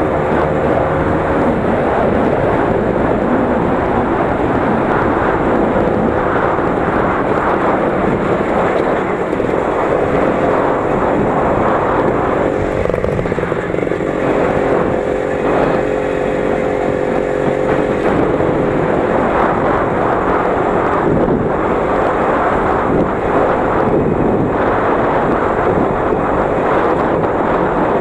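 The 20 hp engine of a Лидер 3.221 is running continuously under load as it is driven cross-country. Its pitch rises and falls with the throttle over a steady rough rattle and rumble.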